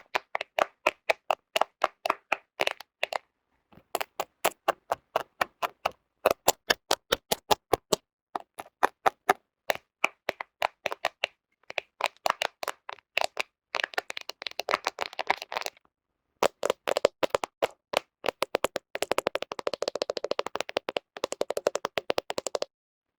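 Fingernails tapping on a camera (smartphone) lens and body for ASMR: quick runs of sharp clicky taps with short pauses between them. Twice in the second half the taps come faster and blur together, like rapid tapping or scratching.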